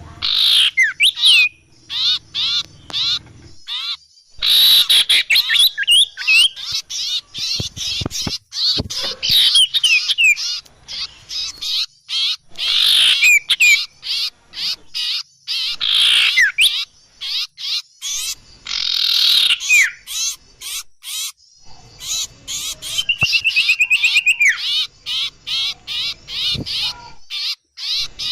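Bird-lure recording of small songbirds calling densely: rapid high chirps, sweeping whistles and trills that overlap with hardly a pause, including a fast, even trill about two-thirds of the way through.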